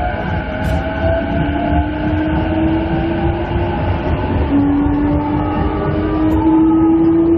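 Running sound of a 209-500 series electric train heard inside a motor car: the traction motor and inverter whine climbs slowly in pitch as the train accelerates, over a steady low rail rumble. About four and a half seconds in the whine steps down a little and starts rising again.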